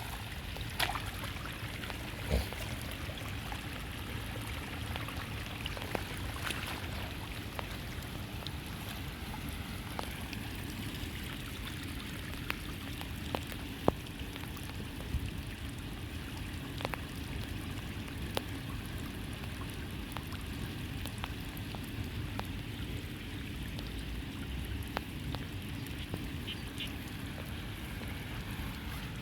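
Rain water running steadily into a street drain, with a few scattered sharp clicks.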